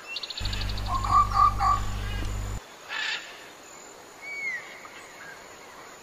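Bird calls: a fast trill of ticks, then a run of three short notes, and later a brief whistle that rises and falls. Under the first two seconds there is a steady low hum that cuts in and stops suddenly.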